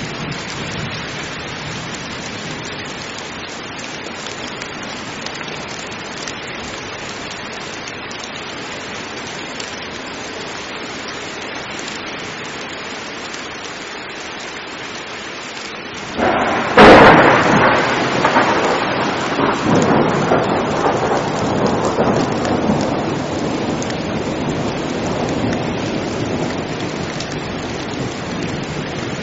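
Heavy rain falling steadily. About sixteen seconds in, a sudden sharp thunderclap cracks, the loudest moment, and thunder goes on rumbling and slowly fading under the rain.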